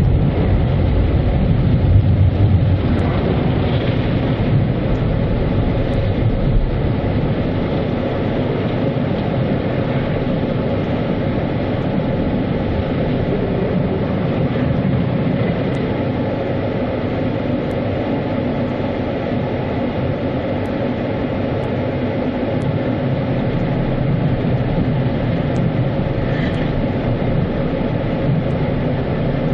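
Automatic car wash running steadily, with water spray and wash equipment heard from inside the car. It is a little louder in the first few seconds.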